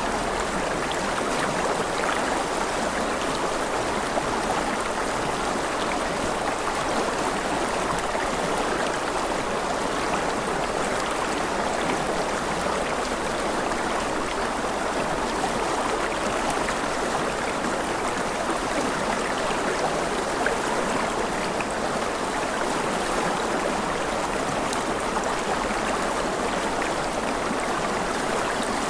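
Running water rushing steadily, an even sound with no breaks.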